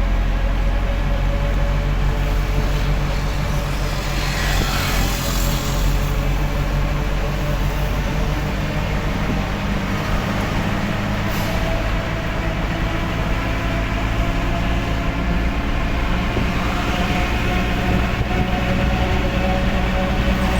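Delivery truck's engine running steadily while driving, its pitch shifting a little now and then, with a rushing hiss about four to six seconds in.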